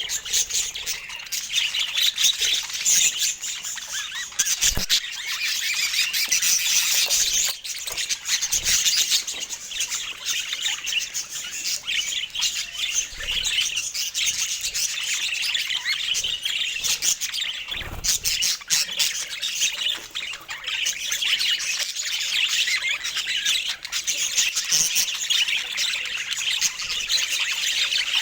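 Budgerigars chattering without pause: a dense stream of high chirps and warbles.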